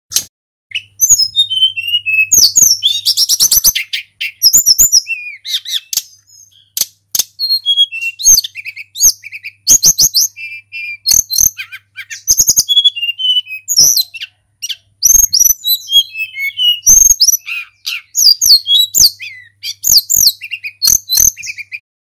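A tledekan gunung flycatcher singing a long, varied song: quick runs of high whistled notes and fast trills, broken by short pauses, with faint clicks and a low hum in the recording.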